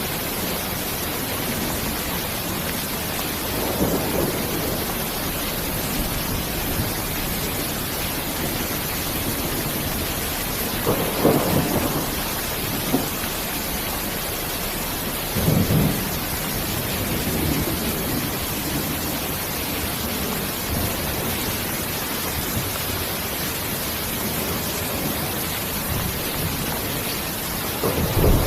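Steady heavy rain hissing, with a few rolls of thunder rumbling up and fading: one about four seconds in, a stronger one about eleven seconds in, another near sixteen seconds, and one more starting near the end.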